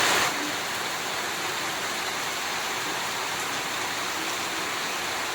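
Steady rain falling, an even hiss that is a little louder for the first moment.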